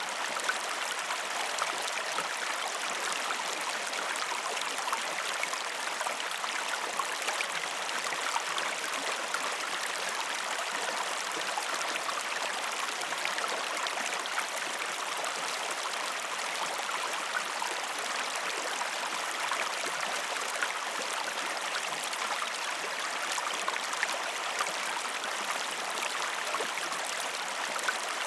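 Waterfall: a steady, unbroken rush of falling water, an even hiss with no change in level.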